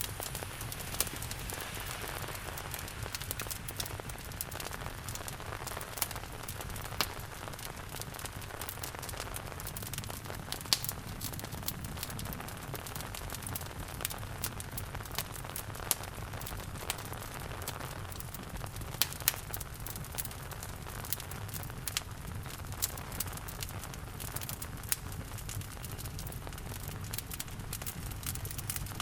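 Wood fire crackling in a fireplace, with sharp pops at irregular intervals, over a steady wash of rain.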